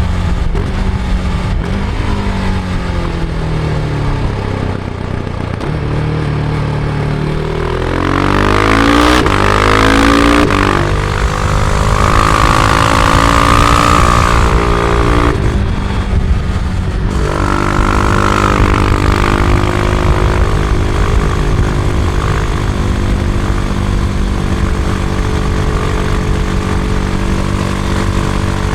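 Husqvarna Vitpilen 701's single-cylinder engine heard from the rider's seat. Its pitch falls over the first few seconds, then climbs hard from about seven seconds in, with short breaks at gear changes, and settles into a steady cruise after about eighteen seconds. Wind noise runs underneath throughout.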